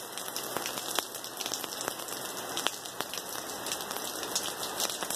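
Heavy thunderstorm downpour: a steady hiss of rain on the ground, with many sharp drop hits close by scattered through it.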